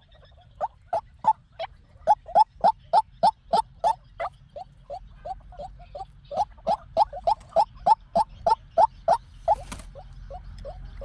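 White-breasted waterhen calling a long run of short repeated notes, about three a second. The notes soften for a couple of seconds in the middle and again near the end.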